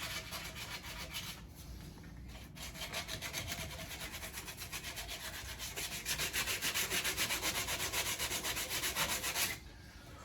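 Sandpaper rubbed by hand in quick back-and-forth strokes, about three or four a second, over the painted steel door jamb of a 1967 Ford Mustang, scuffing off the old clear coat so the primer will stick. The strokes pause briefly about two seconds in, get louder in the second half, and stop shortly before the end.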